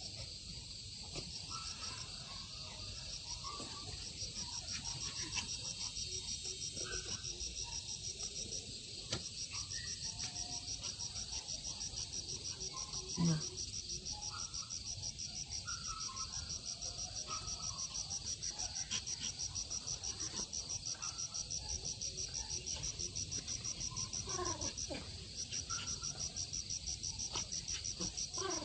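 Crickets chirping in a steady high-pitched train of rapid, even pulses, breaking off briefly about nine seconds in and again near twenty-five seconds. A short low thump about thirteen seconds in.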